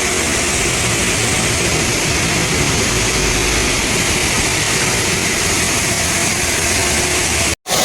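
Heavy machinery running steadily with dense, loud noise and no clear rhythm. It drops out for an instant near the end.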